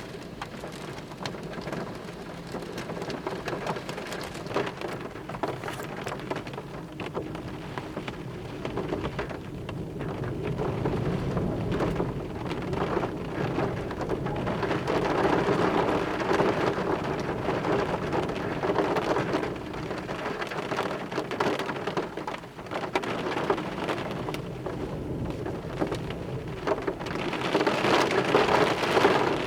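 Heavy rain pouring down in a thunderstorm, a dense patter that swells louder in surges around the middle and again near the end.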